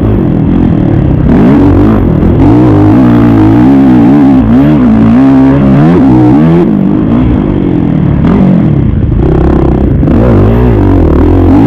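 Kawasaki KX450 single-cylinder four-stroke dirt bike engine revving up and down over and over as the rider accelerates, shifts and backs off around a motocross track.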